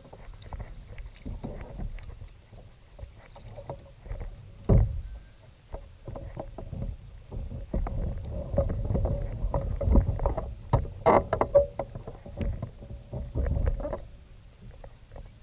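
Knocks, bumps and low rumbling from a kayak on the water, irregular throughout, with a sharp knock about five seconds in and a burst of louder clicks about eleven seconds in.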